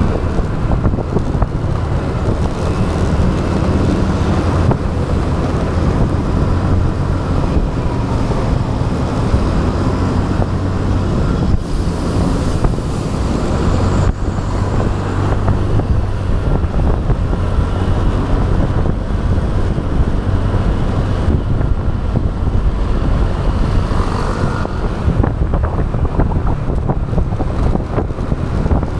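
Riding on a motorbike: wind rushing over the action camera's microphone, over the bike's steady engine hum and road noise.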